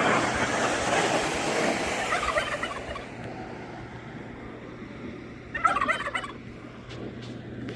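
A flock of laying hens clucking and squawking together, a dense chorus for the first few seconds that then thins out, with a louder burst of calls a little before the end. A faint low steady hum runs underneath.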